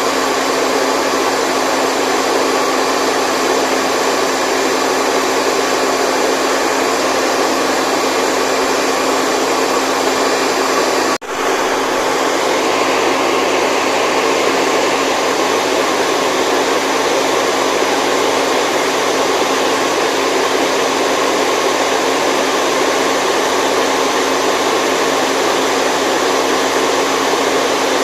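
Steady white noise for sleep: an even, constant whooshing hiss with little low end. It drops out for a split second about eleven seconds in, then resumes unchanged.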